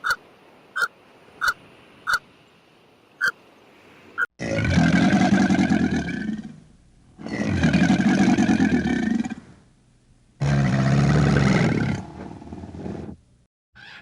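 A few short, sharp chirps, then, after an abrupt change about four seconds in, a farm animal calling loudly three times, each call about two seconds long.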